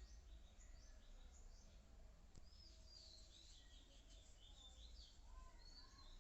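Near silence, with faint birds chirping and twittering in the background over a low steady hum.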